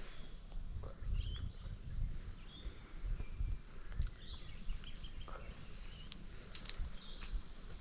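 Scattered short bird chirps over an uneven low rumble.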